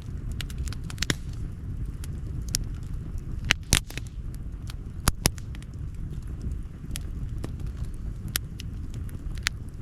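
Campfire wood crackling: irregular sharp pops and snaps, with a few louder pops about four and five seconds in, over a steady low rumble.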